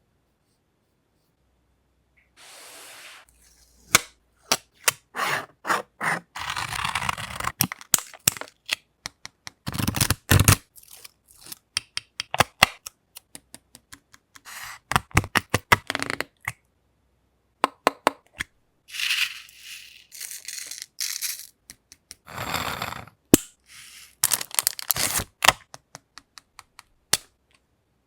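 Paper and craft materials being handled: irregular sharp taps and clicks mixed with short rustling and scraping sounds, starting a couple of seconds in.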